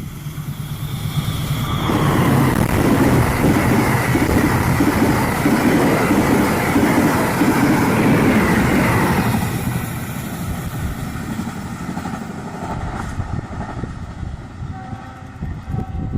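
A CC206 diesel-electric locomotive and its passenger train passing close by. The engine and wheels build up over about two seconds, stay loud for some seven seconds with the horn sounding, then ease off as the train moves away.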